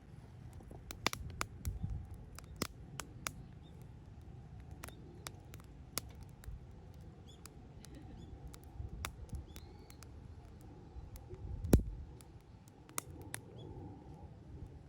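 Wood fire burning, crackling with sharp irregular pops and clicks over a low rumble, with one louder pop about twelve seconds in.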